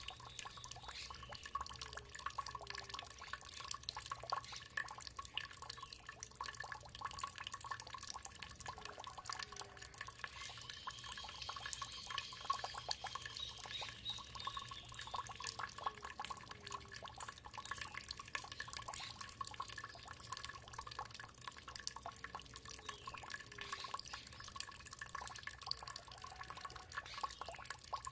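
Water trickling and dripping steadily in many small drops. A faint, high, drawn-out bird call comes in about ten seconds in and lasts a few seconds.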